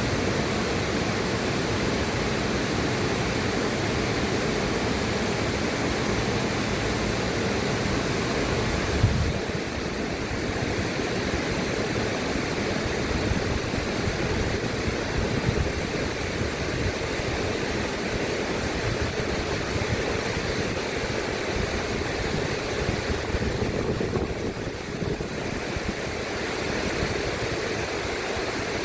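River water rushing steadily, a dense even sound of flowing water. About nine seconds in there is a brief bump and the sound turns a little less hissy.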